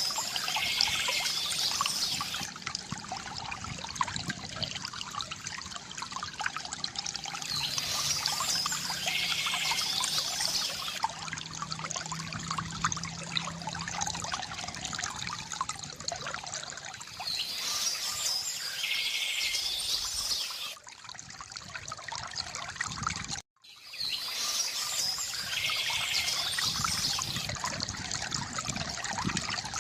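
Water trickling and splashing steadily from a bamboo fountain, with a bird calling briefly about every eight seconds, four times in all. The sound drops out for a split second about two-thirds of the way through.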